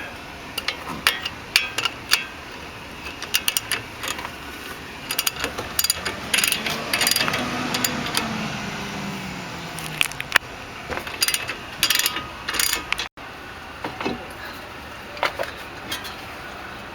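Ratchet wrench clicking in quick runs as the 19 mm caliper bracket bolts on a front brake are backed out, with some metallic clinks.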